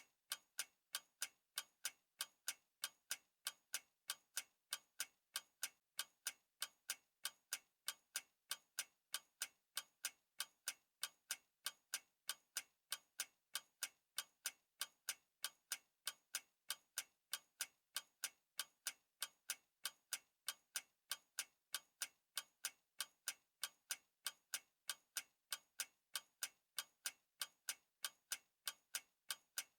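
A clock ticking steadily, with sharp, evenly spaced ticks at about two a second.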